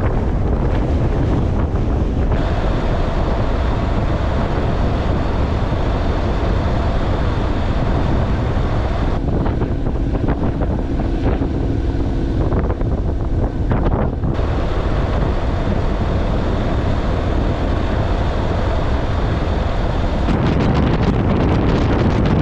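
Wind rushing and buffeting over the microphone of a moving motorcycle, a steady, loud, low rumble.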